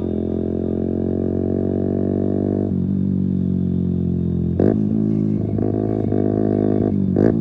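Keeway RKF 125's single-cylinder engine through a Mivv exhaust with the dB killer removed, running at steady revs under way. The note steps to a new pitch about a third of the way in and shifts again after a short sharp burst past halfway; near the end the revs rise and fall quickly.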